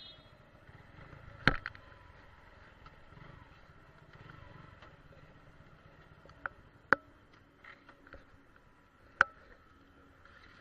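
Four sharp clicks or knocks, a few seconds apart, over a quiet steady background.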